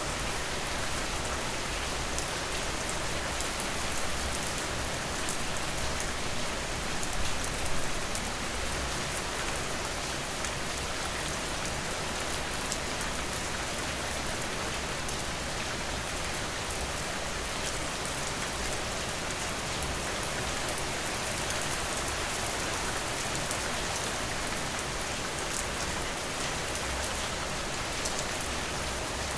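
Steady rain falling, an even hiss with fine scattered ticks of drops, briefly swelling a little about seven seconds in.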